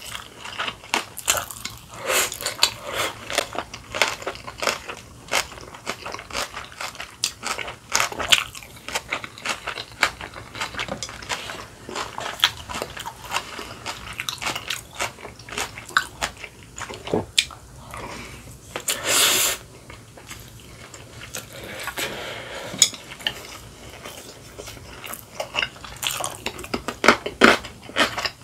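Chewing and crunching of kimchi and rice: a steady run of wet crunches and mouth clicks, with one short hissing noise about two-thirds of the way through.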